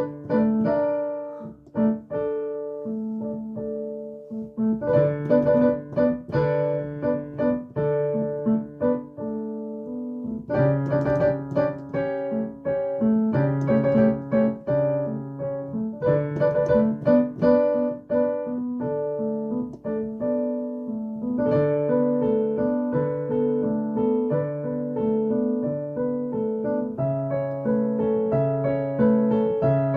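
Solo piano playing improvised music: chords struck and held, with repeated notes, in phrases that start afresh about every five seconds.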